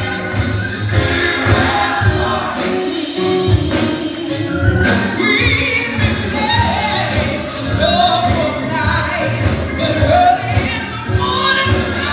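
Gospel singing with a choir, over a band with a steady pulsing bass beat.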